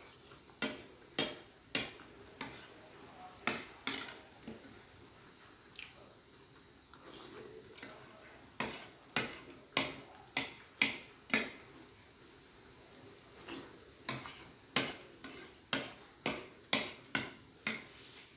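Eating soft, wet food with the mouth open: sharp smacking clicks of chewing, about two a second, in several runs separated by short pauses.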